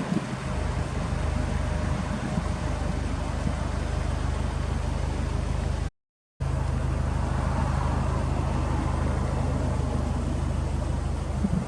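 Subaru WRX STI's turbocharged flat-four engine idling steadily through an aftermarket HKS muffler, with a low, even exhaust note. The sound cuts out for a moment about six seconds in.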